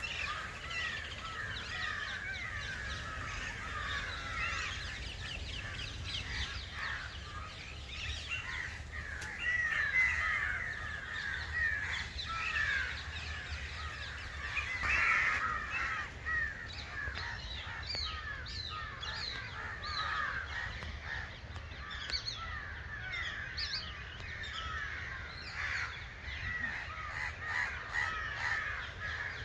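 A chorus of many birds calling at once, a dense, continuous stream of short, rapid calls and chatter, with harsh crow-like cawing among them.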